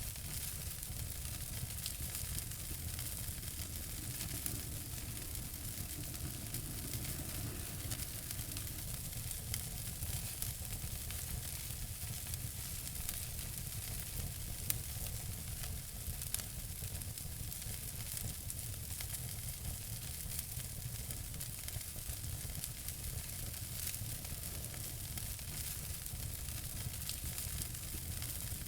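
Wood fire in a fireplace crackling: a steady hiss full of small rapid pops, with a low rumble of the flames underneath and a couple of sharper pops near the middle.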